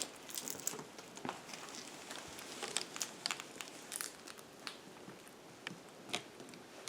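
Faint, irregular rustling and small clicks as a bird recovery box is opened and handled.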